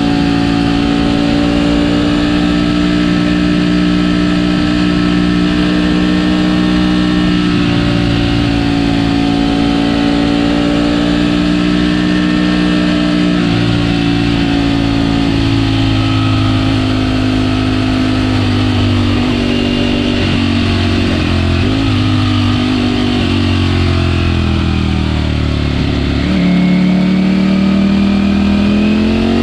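Ducati Panigale V4S's 1103 cc V4 engine through its stock exhaust, running at a steady cruising pitch for most of the time. The note wavers in the middle, drops as the revs fall about 25 seconds in, then climbs again near the end as the bike accelerates.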